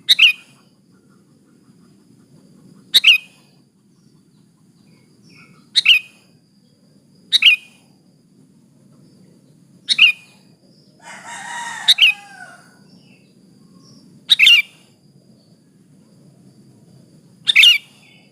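Sooty-headed bulbul (kutilang) calls, given as a female calling a male: short, sharp high notes, one every two to three seconds, eight in all. A longer, lower call sounds just before the sixth note.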